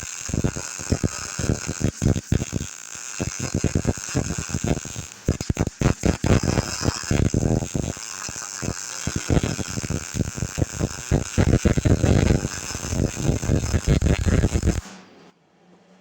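Wire-feed welding arc on steel, a dense, uneven crackle while a bead closes up a gap on the bucket. It cuts off sharply about fifteen seconds in, leaving a faint steady hum.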